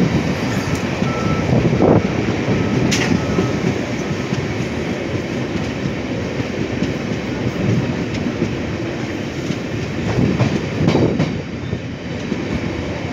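Running noise of a passenger train heard at an open coach door: a steady rumble of wheels on the rails, with a few sharper clacks at rail joints.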